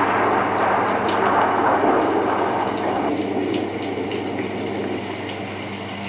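Heavy rain pouring down, a dense crackling hiss that eases somewhat about halfway through, over a steady low hum.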